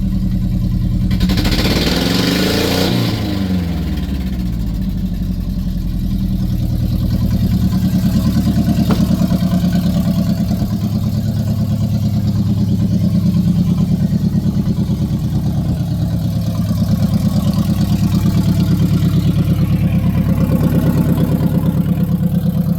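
2011 Great Wall V240's 2.4-litre petrol engine running at idle, revved once briefly about a second in and settling back within a couple of seconds, then idling steadily.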